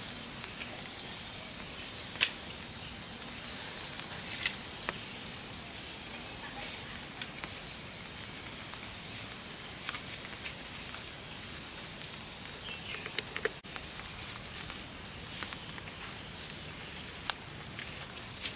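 Steady high-pitched insect drone, unbroken, with a few scattered sharp clicks, the loudest about two seconds in. The overall level drops a little about thirteen and a half seconds in.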